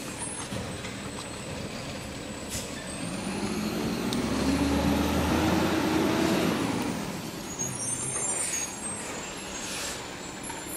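Garbage truck running, its engine and hydraulics building up for a few seconds in the middle with a low tone that rises and then falls, before easing back to a steadier idle.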